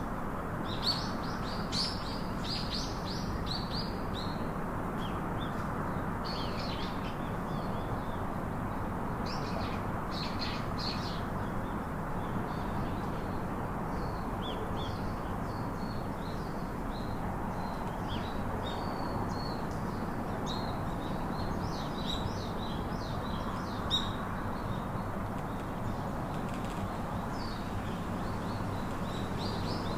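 Small songbirds chirping in many short, high notes, in clusters throughout, over a steady background hiss.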